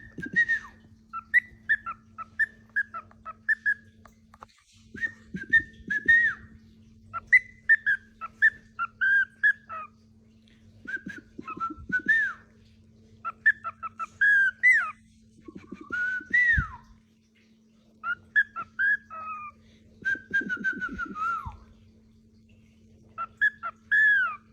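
Pet parrot whistling in phrases of quick, short whistled notes, many sliding up or down in pitch, with brief pauses between phrases, over a faint steady low hum.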